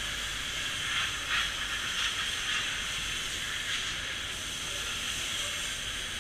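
A steady mid-pitched hiss, with a few faint brief clicks.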